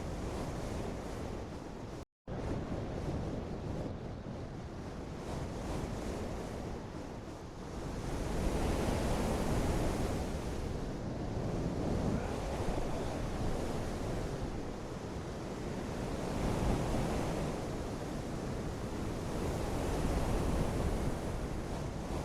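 Steady rushing water-like noise that swells and eases every few seconds, with a brief complete cut-out about two seconds in.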